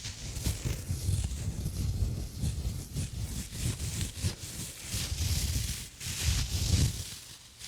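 Textured exfoliating gloves rubbing and scratching close around a microphone, in repeated swelling strokes with a deep rumble and a high hiss.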